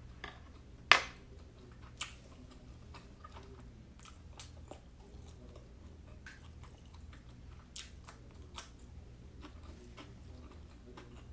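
Close-up chewing and mouth sounds of someone eating steamed siomai, with scattered small clicks and one sharp loud click about a second in.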